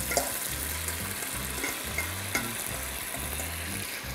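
Shredded chicken and giblets sizzling steadily in hot olive oil in a pot, with a few clicks of a metal spoon against the steel bowl and pot as the food is scraped in and stirred.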